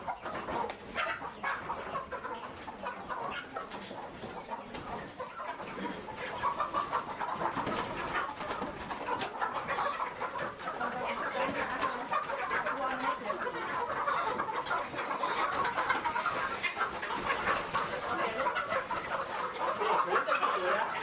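A flock of chickens clucking together in a busy, continuous chatter that grows louder about six seconds in and again in the second half.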